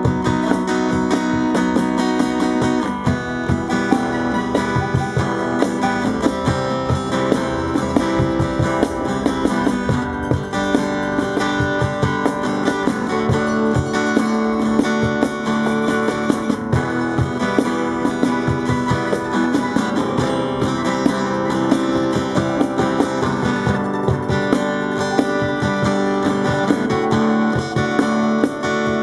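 A band playing Brazilian popular music: strummed acoustic guitar over steady, busy percussion, without a break.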